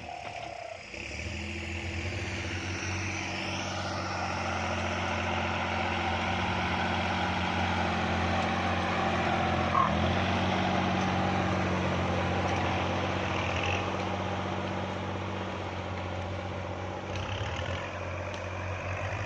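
Kubota MU4902 tractor's diesel engine running steadily under load while pulling a disc plough through a field.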